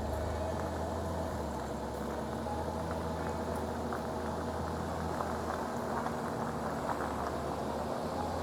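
BMW M760Li's 6.6-litre twin-turbo V12 running steadily: an even low hum with a constant higher tone over it and no revving.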